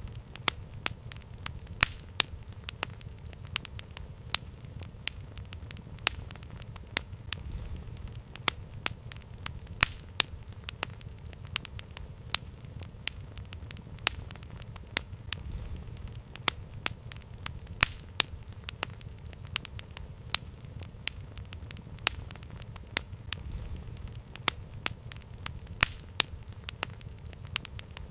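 Campfire burning, crackling with frequent sharp, irregular pops over a low steady rumble.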